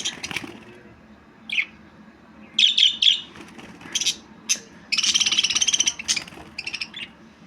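Budgerigar chirping in short, high calls, with a rapid chattering warble lasting about a second in the middle.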